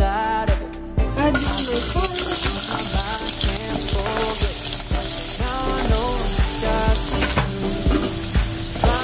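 Diced carrots sizzling in hot oil in a metal pot, starting about a second in, under a background song with singing and a steady beat.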